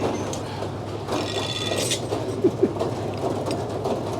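Frick sawmill machinery running steadily with a low hum, a short metallic rasp about a second in, and two light metal knocks after it.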